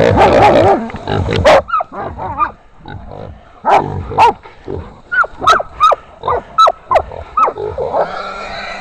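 Caught wild sow squealing in short, repeated cries while held by catch dogs, with dogs barking.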